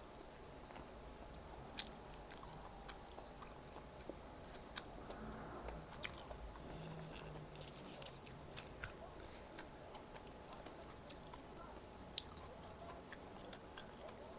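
A person chewing and biting food close to the microphone: quiet mouth sounds with scattered small crisp clicks, busiest around the middle.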